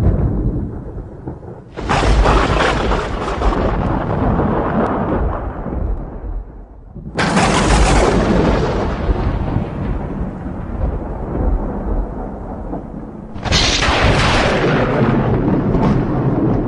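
Three thunderclaps, each starting with a sudden crack and rolling into a long low rumble that fades slowly. They come about two seconds in, about seven seconds in and about thirteen and a half seconds in.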